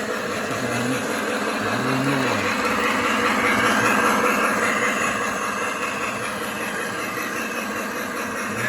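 Lionel Union Pacific model train locomotive running on its track: a steady mechanical sound that swells a little around the middle.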